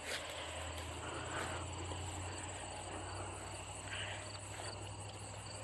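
Insects trilling steadily at a high pitch, with a faint low hum underneath.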